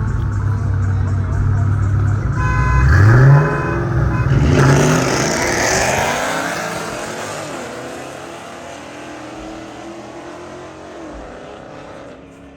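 Car engine idling, then revved hard twice with rising pitch as the car pulls away, its sound fading out over the following seconds.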